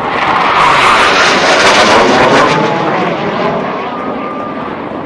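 F/A-18 Hornet jet engines roaring as the jet flies past fast, swelling to a peak about two seconds in and then fading away.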